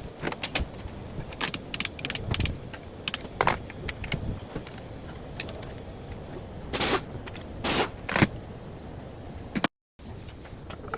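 Metal hand tools and engine parts clinking and knocking in irregular strokes, a few of them louder. The sound cuts out for a moment near the end.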